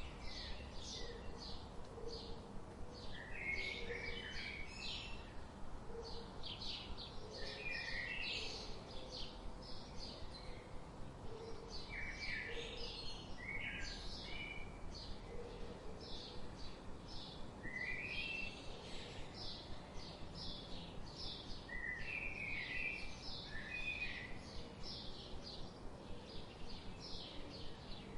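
Several songbirds chirping and trilling in quick, overlapping phrases over a steady rush of flowing river water, with a low call repeating softly underneath.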